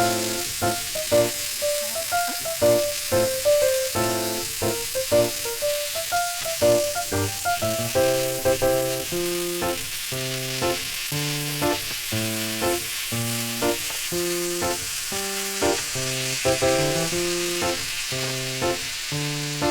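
Food sizzling as it fries in a pan, a steady hiss, under background music with a plucked-sounding melody.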